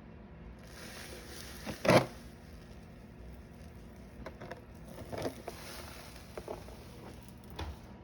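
Handling sounds while detergent is put into a dishwasher's soap dispenser: a few short clicks and light knocks of plastic, the loudest about two seconds in.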